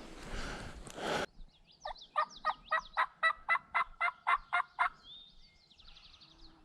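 A run of about a dozen turkey yelps, evenly spaced at about four a second, with faint small-bird chirps above them. Before it, a rustling noise stops abruptly about a second in.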